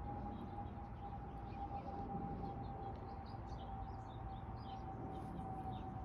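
A steady whine that sinks very slightly in pitch throughout, over a low rumble, with many short bird-like chirps.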